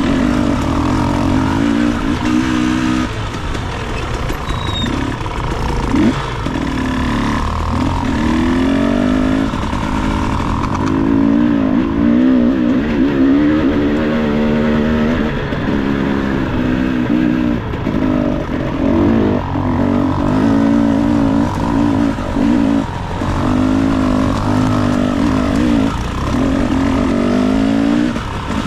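Dirt bike engine revving in short swells, its pitch rising and falling over and over as the throttle is worked on a rocky downhill.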